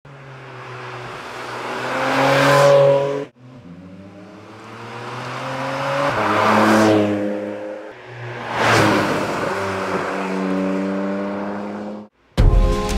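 Porsche 718 Cayman GT4 RS's naturally aspirated 4.0-litre flat-six running in three short spliced clips. Each clip swells to a loud peak as the car revs or passes, and the first two cut off abruptly. Music starts near the end.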